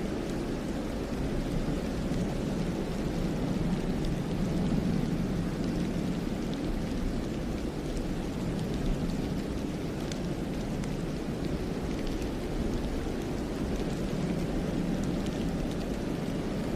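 Steady wind blowing through a snowy pine forest, a low, even rumble with a gentle swell a few seconds in, and faint scattered ticks above it.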